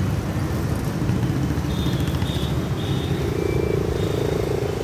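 Busy street traffic: a steady rumble of engines from passing cars and motorcycles, with a few short high-pitched tones and a louder engine hum building about three seconds in.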